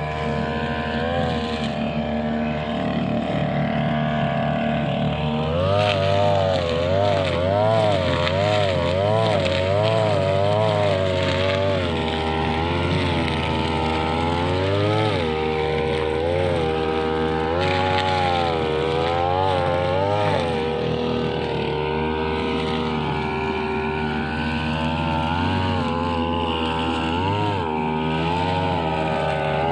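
Two-stroke brushcutter engine running at high speed while cutting grass. For about the first five seconds it holds fairly steady; after that its pitch dips and recovers roughly once a second as the load on the cutting head changes.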